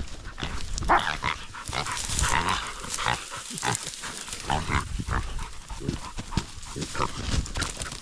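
Wild pig squealing and grunting in short, irregular bursts during a scuffle with hunting dogs.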